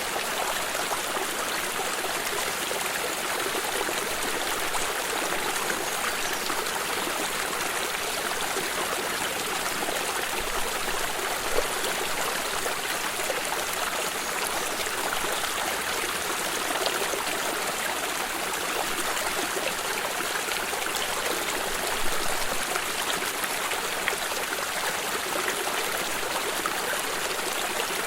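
A shallow stream running steadily, water trickling and splashing over stones, with a few slightly louder splashes along the way.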